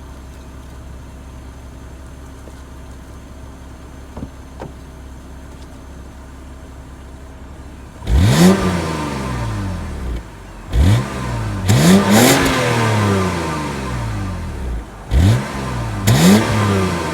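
Car engine with its stock exhaust and muffler idling, then revved about five times from about eight seconds in, each rev rising quickly and falling back; the exhaust note is not loud.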